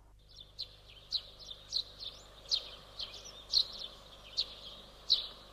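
Small birds chirping: a run of short, sharp chirps, about two a second, over a faint steady hiss.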